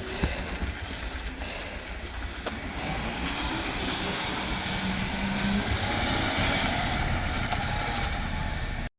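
Rubbish truck running, a steady low rumble that grows louder from about five seconds in, with a brief steady hum near the middle.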